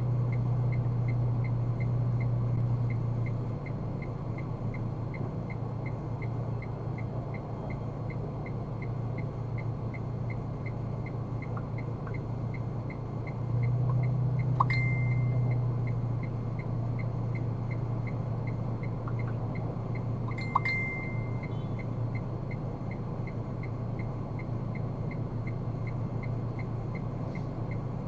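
Car cabin sound while driving: a steady low engine and road hum that gets louder about halfway through. Over it runs an even light ticking, about one and a half ticks a second, and there are two brief beeps about six seconds apart.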